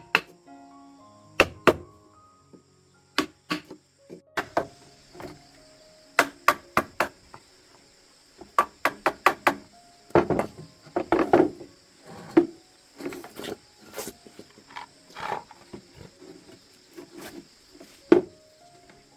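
Irregular sharp knocks and chopping strokes, struck in quick runs of several blows with short pauses between, over a steady high-pitched drone.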